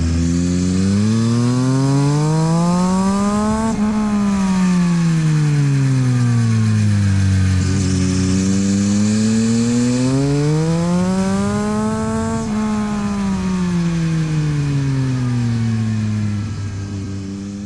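Yamaha MT-09 SP's 890 cc inline-triple through an aftermarket LeoVince exhaust, accelerating hard with the pitch climbing smoothly to about double, then falling back slowly as the throttle is rolled off, twice over, ending on a steady lower note.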